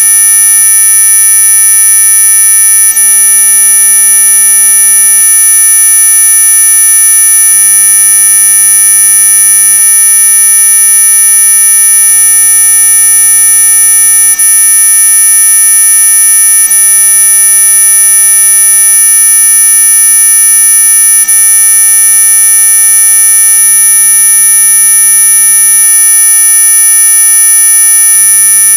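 Synthetic anti-mosquito 'ultrasonic' repellent tone: a loud, steady electronic buzz of several pure pitches sounding together, topped by a piercing very high whine, unchanging in pitch and level.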